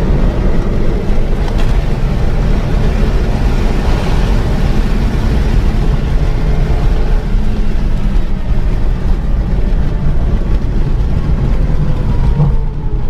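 Remapped Renault Mégane 3 RS Trophy, its 2.0-litre turbocharged four-cylinder running at speed and heard from on board, under a heavy, steady low rumble of road and wind noise. Near the end a few thin tones slide downward.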